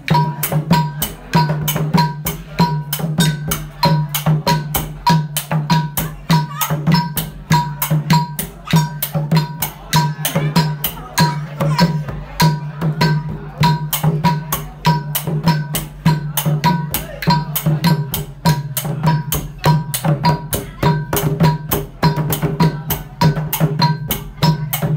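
Khmer chhay dam dance music: a fast, steady percussion rhythm of drums and sharp wooden clicks, about four or five strokes a second, over a steady low drone.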